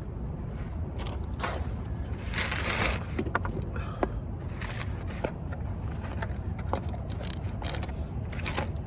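Paper food wrappers and a bag rustling and being crumpled, with scattered clicks and short scrapes, as a meal's leftovers are cleared away. The rustling is loudest about a second and a half to three seconds in, over a steady low rumble.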